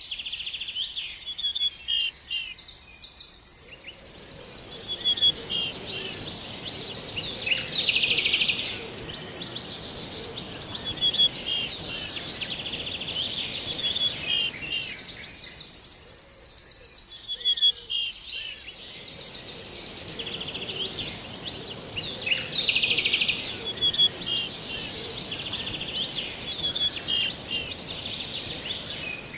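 Several songbirds chirping and trilling together in a dense, busy chorus. A steady high-pitched hiss runs beneath the birdsong and drops out briefly about halfway through.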